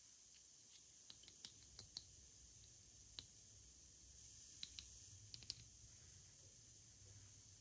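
Faint, irregular light clicks and ticks, about a dozen in the first five and a half seconds, over a steady hiss.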